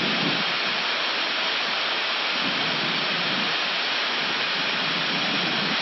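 Steady rushing noise on the flight deck of an Airbus A319 in a descent with the engines at idle thrust: mostly air streaming past the cockpit, an even hiss that does not change.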